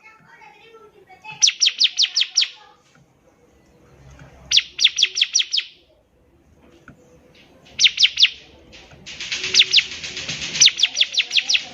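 Bar-winged prinia (ciblek) singing: phrases of rapid, high, downward-sweeping notes, about six or seven a second, repeated in short bursts with gaps between them. Near the end a longer, denser run of notes follows.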